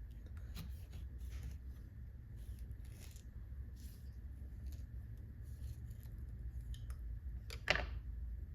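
Scissors snipping in short, irregularly spaced cuts, with one louder snip near the end.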